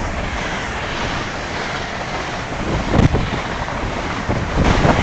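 LNER Azuma high-speed train passing through the station without stopping: a steady rush of air and wheel noise, with two heavier surges about three seconds in and near the end.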